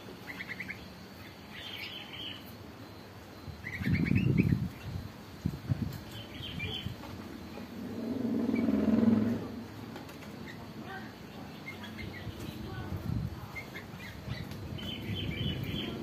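Caged birds chirping in short, high bursts now and then, with a low thump about four seconds in and a low hum that swells and fades around the middle.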